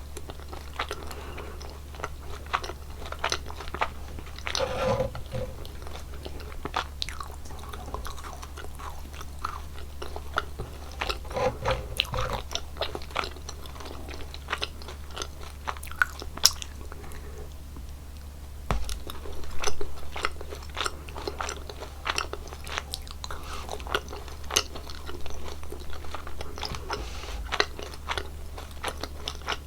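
Close-miked chewing and biting of gummy jelly candies: many short, irregular wet clicks and snaps, over a steady low hum.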